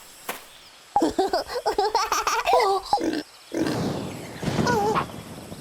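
Cartoon animal vocal sound effects: a wavering, squealing call starting about a second in, then a rougher, growling call.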